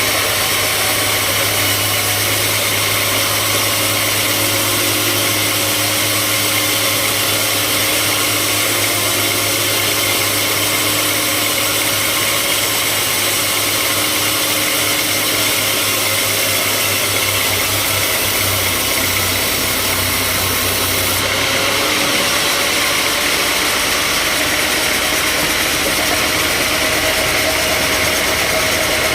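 Sawmill machinery running steadily: a continuous loud mechanical drone with a hiss. Its tone shifts slightly about 22 seconds in.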